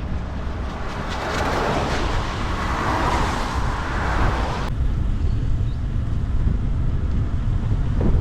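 Steady wind rumble on the microphone of a cyclist riding in the rain, with a louder rushing hiss over the first half that cuts off suddenly a little before the middle.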